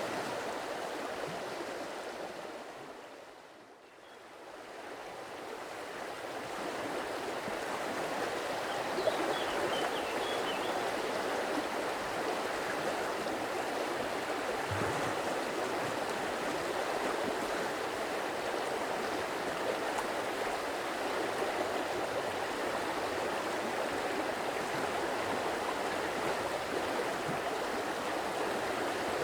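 A stream of water flowing and babbling steadily over rocks. The sound fades down and swells back up about four seconds in, then runs on evenly.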